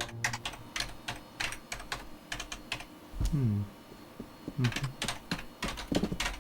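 Typing on a computer keyboard: a run of uneven key clicks, broken by a couple of short low sounds that slide down in pitch about three and five seconds in.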